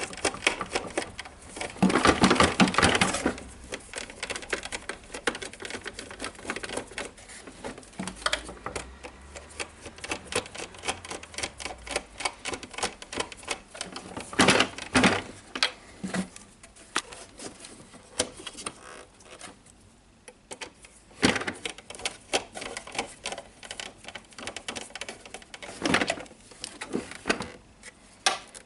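Plastic housing parts and screws of a DeWalt site radio being handled and fitted on a workbench: irregular clicks and knocks, with a dense run of clattering about two seconds in and a few sharper knocks later on.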